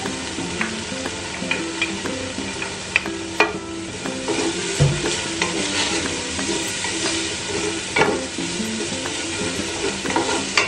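Minced garlic and ginger sizzling in hot coconut oil (coconut milk cooked down to oil) in a stainless steel pot. A wooden spatula stirs them and knocks sharply against the pot a few times, loudest about three and a half and eight seconds in.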